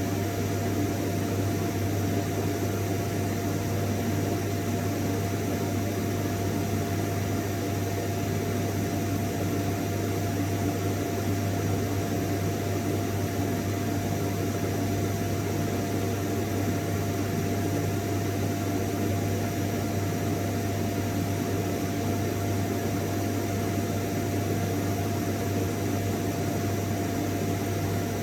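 Vacuum cleaner running steadily: an even rushing noise with a low hum and a thin, steady whine above it.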